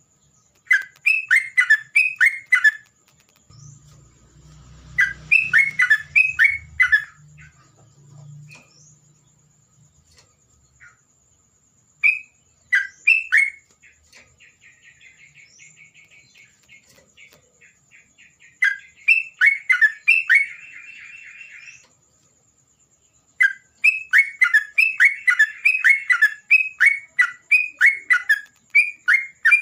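A songbird singing in bursts of quick, falling whistled notes, four to six at a time, with a softer, fast rattling trill in the middle. The song runs on continuously over the last several seconds. A faint, steady high-pitched tone sounds underneath throughout.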